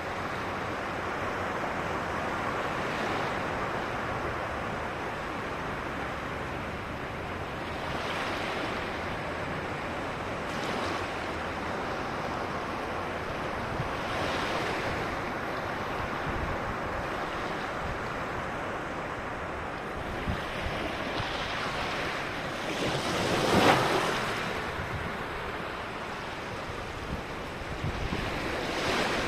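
Ocean surf washing onto a beach: a steady rush of waves rising and falling in several swells, the loudest wave breaking a little past the middle.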